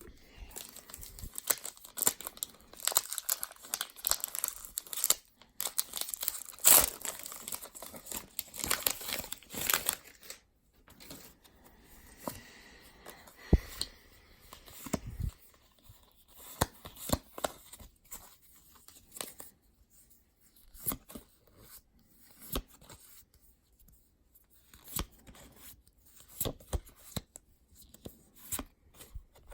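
Foil booster-pack wrapper of Pokémon trading cards being torn open and crinkled for about the first ten seconds, followed by sparser rustles and light clicks of handling.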